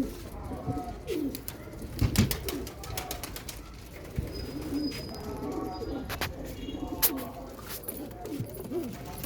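Domestic pigeons cooing in a loft, a run of short repeated coos, with a few sharp clicks and knocks among them.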